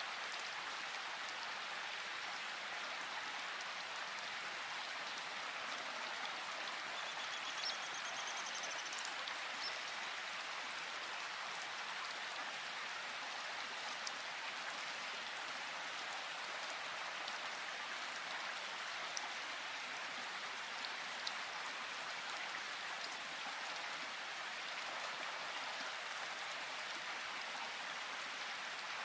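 Steady rainfall, an even hiss of drops, with a few sharper single drips standing out now and then.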